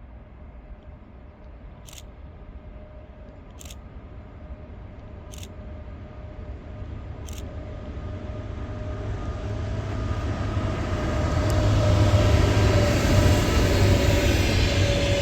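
A train approaching and growing steadily louder: a low rumble with a steady whining tone that drops slightly in pitch as it nears. Four faint sharp ticks come in the first half.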